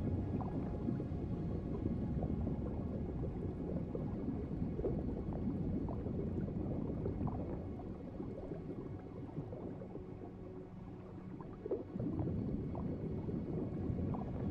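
Low, muffled underwater water ambience of bubbling and gurgling, dipping softer for a few seconds past the middle before a small pop brings it back up.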